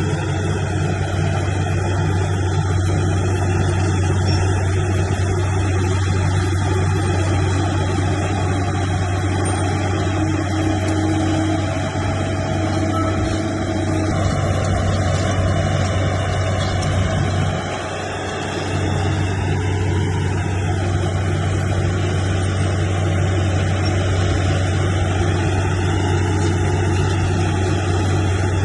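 Heavy diesel engine of earthmoving machinery running steadily, with a brief drop in level about eighteen seconds in.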